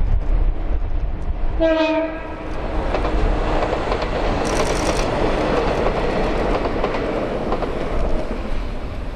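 Shinano Railway 115 series electric train giving a short horn blast about a second and a half in, then passing with a steady rush and rumble of wheels on rail.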